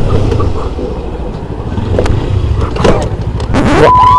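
Motorcycle running while a siren wails. About three and a half seconds in comes a sharp, loud rush of noise as the rider brakes hard into a stoppie to avoid a car ahead. It is followed by a loud steady tone, with the siren rising again at the end.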